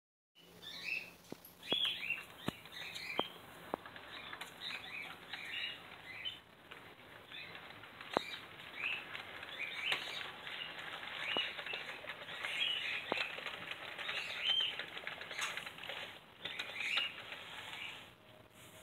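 Small birds chirping repeatedly in short, quick calls, with scattered sharp clicks between them.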